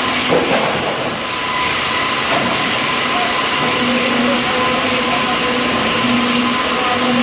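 Sawmill machinery with an automatic log carriage running: a steady mechanical din with a faint hum that comes and goes.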